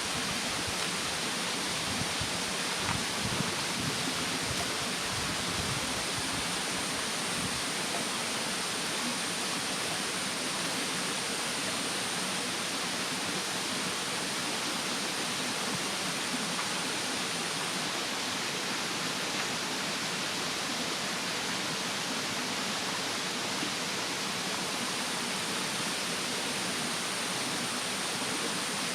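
Steady rushing of a mountain stream, with a few faint pops from a wood campfire now and then.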